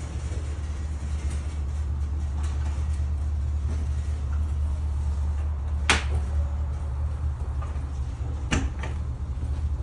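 Steady low rumble of an idling engine, with two sharp knocks about two and a half seconds apart, the first one louder.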